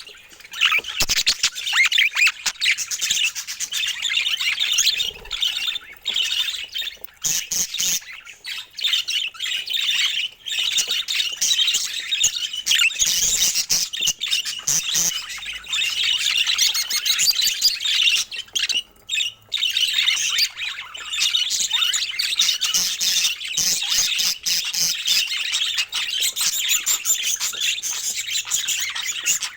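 A flock of budgerigars chattering, warbling and chirping continuously, with a brief lull about two-thirds of the way through.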